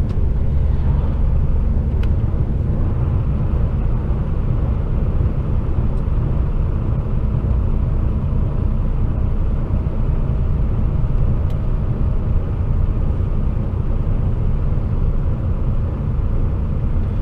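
Steady low drone of a loaded HGV container truck's diesel engine and road noise, heard from inside the cab.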